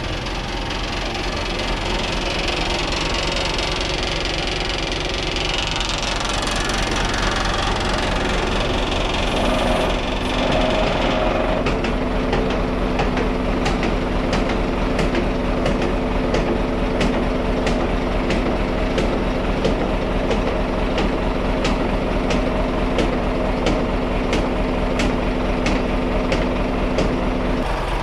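Car transporter truck's diesel engine running steadily, with a noisy hiss for about the first ten seconds, then a steady whine joined by regular clicks about twice a second.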